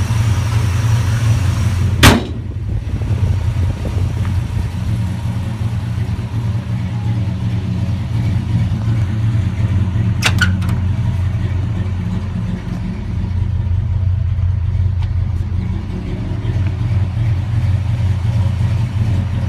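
1957 Chevrolet 3100 pickup's 265 V8 running at a steady idle. A sharp click about two seconds in is the loudest moment, and a fainter click follows around ten seconds in.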